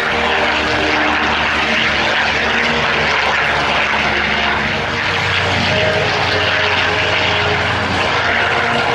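Propeller airplane in flight, its engine and propeller running loud and steady, with the engine note changing pitch about five seconds in.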